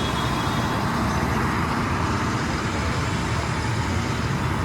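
A heavy truck running: steady engine and road noise with no sudden events.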